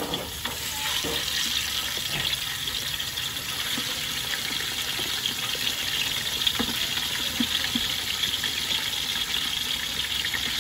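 Food sizzling in a hot pan: a steady hiss with fine, continuous crackling.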